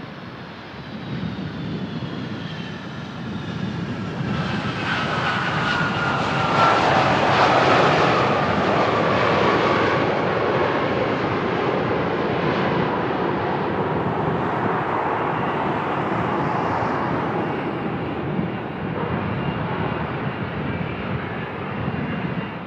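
Boeing 757 airliner passing on arrival, its jet engines running with a high whine that falls in pitch as it goes by. It is loudest about six to eight seconds in, then holds a steady rush. Wind rumbles on the microphone underneath.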